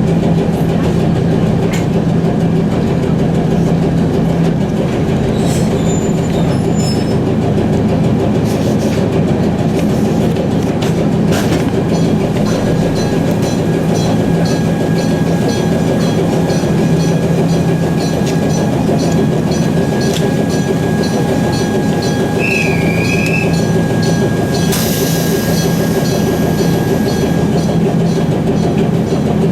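Echizen Railway electric railcar running along the line: a steady rumble of wheels on track under a low motor hum, with a thin high whine held through much of the middle.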